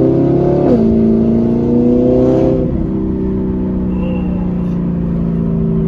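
Straight-piped, naturally aspirated V8 of an Audi R8 pulling through the gears. The engine note climbs and drops sharply with an upshift under a second in, then climbs again. It falls again near three seconds in and then holds steady at a cruise.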